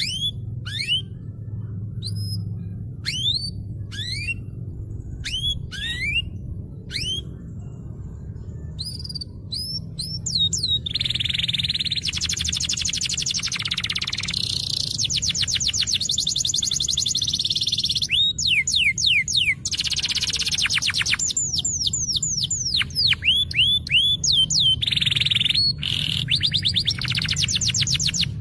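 Domestic canary singing. It starts with separate rising whistled chirps about once a second, then from about ten seconds in breaks into long, fast trills and rolls of rapidly repeated notes. A steady low hum runs underneath.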